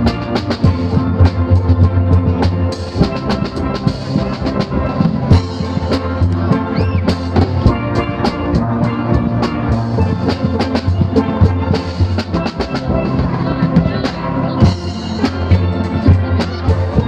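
Steel pan band playing: many pans striking rapid melodic notes over a steady drum beat and bass.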